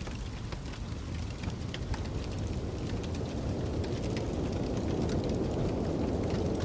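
Crackling fireplace, with scattered sharp pops and snaps from the burning wood, over the steady low rush of a snowstorm's wind, which builds a little about halfway through.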